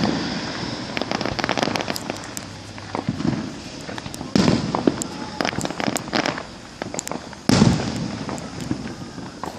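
Fireworks going off: many sharp crackling pops throughout, with two louder booms about four and a half and seven and a half seconds in, each trailing off in a rumble.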